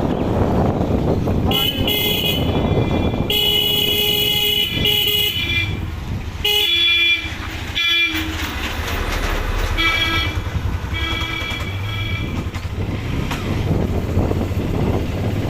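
Vehicle horns honking repeatedly, in blasts of up to about two seconds at two or more different pitches, over steady wind buffeting on the microphone of a moving motorcycle.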